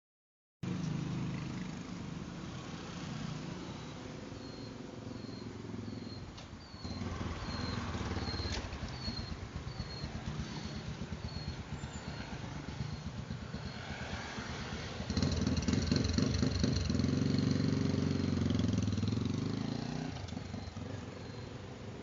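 Motorcycle engine running with a fast pulsing rumble, louder for a stretch about two-thirds of the way through before settling back. A short high chirp repeats over it for several seconds in the first half.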